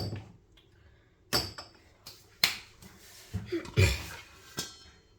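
Cookware and utensils being handled: a string of about six sharp knocks and clinks, with a short clatter a little past the middle.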